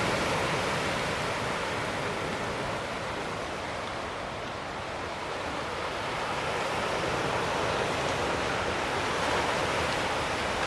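Sea surf washing onto the shore: a steady rush that ebbs a few seconds in and swells again towards the end.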